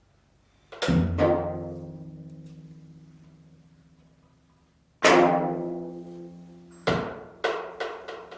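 Sparse plucked and struck notes on a Korean zither, each ringing out and fading slowly: two close together near the start, a strong one about halfway through, then a quicker run of notes near the end.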